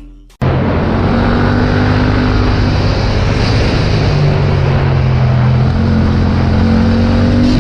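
Motorcycle engine running under way, with wind and road noise; it cuts in about half a second in. Its pitch climbs slowly, drops about six seconds in, then climbs again.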